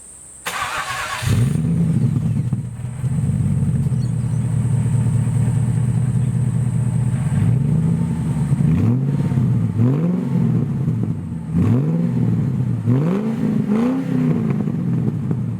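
Ford BOSS 260 V8 in a 2003 XR8 ute starting: a brief crank, then it catches with a rev flare and settles into a steady idle. From about halfway on the throttle is blipped repeatedly, the revs climbing and dropping again half a dozen times.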